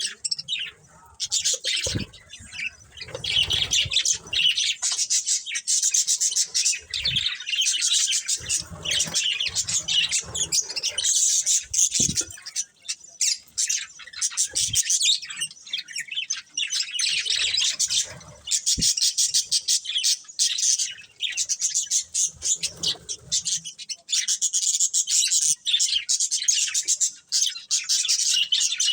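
Budgerigars chattering and chirping almost without pause, a busy stream of rapid high warbles and squawks with a few brief gaps.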